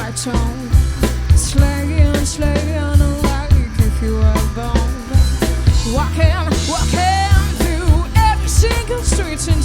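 Rock song with a drum kit played live, a steady beat of kick, snare and cymbal hits over bass and melodic instruments; a wavering melodic line comes in about two-thirds of the way through.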